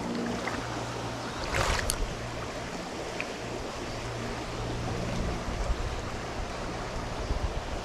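Creek water running, a steady rushing noise, with a brief louder swish about a second and a half in.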